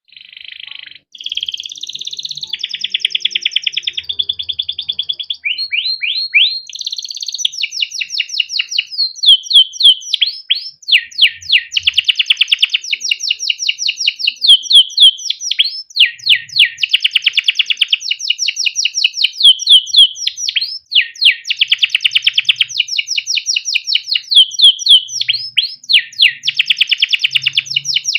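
Canary singing a long, unbroken chirp-and-roll song of fast repeated chirps and rolling trills. It starts suddenly out of silence.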